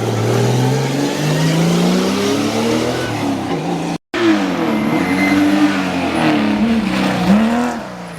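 Historic rally car engine at full throttle, its note climbing steadily as it accelerates. After a sudden cut, a rally car engine revs up and down through gear changes and lift-offs, fading near the end.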